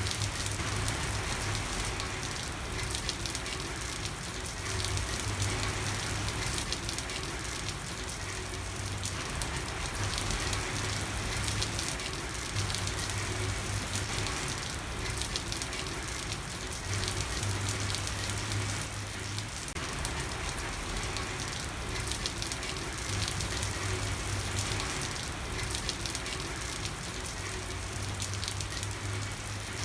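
Steady rain falling, an even hiss of many drops with fine crackling patter. A low hum comes and goes underneath every few seconds.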